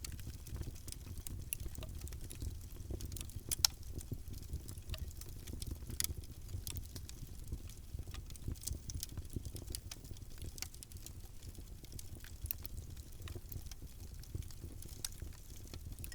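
Wood fire burning in a fireplace, crackling: irregular sharp pops and snaps over a low steady rumble, with one louder pop about three and a half seconds in.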